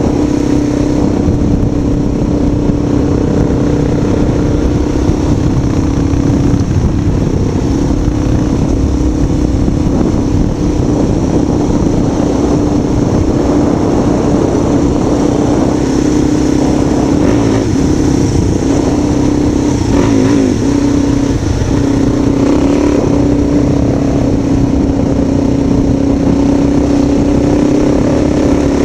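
A vehicle engine running at a steady speed, holding one even tone with a brief waver about two-thirds of the way in, over a heavy rumble of wind and road or motion noise.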